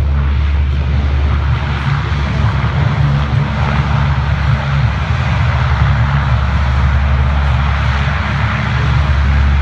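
Steady, loud drone of a C-130 Hercules' four turboprop engines and propellers in flight.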